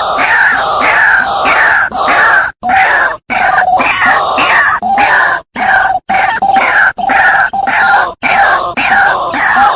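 White-breasted waterhen (ruak-ruak) calling: loud, harsh croaking notes that fall in pitch, about three a second, in a continuous run that breaks off briefly a few times.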